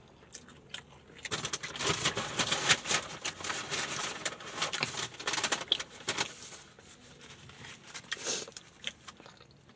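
Crunchy chewing of fried chicken close to the microphone: dense crackly clicks for about five seconds, then a few scattered ones near the end.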